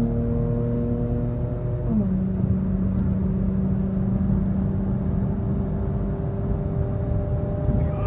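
Car engine and road noise heard from inside the cabin while driving: a steady engine drone over a low rumble, dropping in pitch once about two seconds in and then holding steady.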